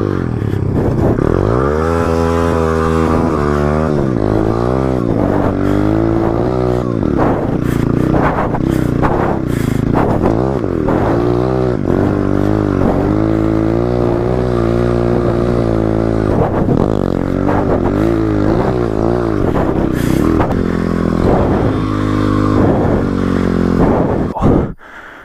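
Motorcycle engine revved hard as it is ridden, its pitch repeatedly climbing and dropping through the gears.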